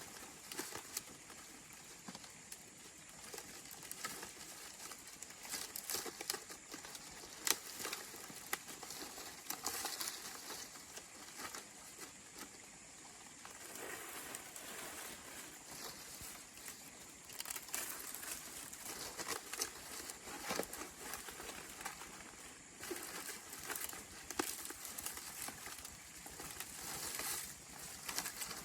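Irregular rustling and crinkling with scattered light clicks and taps, no steady machine tone.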